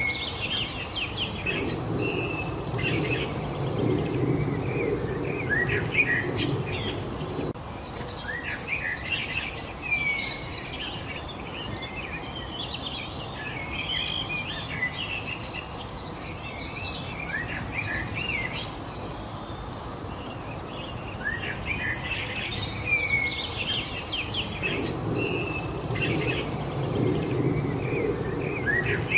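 Several songbirds chirping and twittering together in quick, falling notes, over a low rushing background noise that comes and goes.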